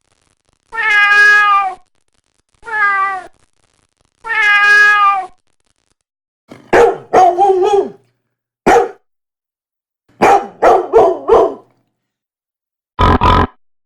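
A cat meowing three times, each a drawn-out call. It is followed by several short, rougher animal calls and a brief double call near the end.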